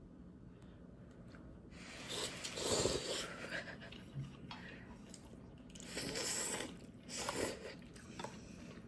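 Someone biting and chewing crunchy food, heard as three crackly bursts: about two seconds in, then around six and seven seconds in.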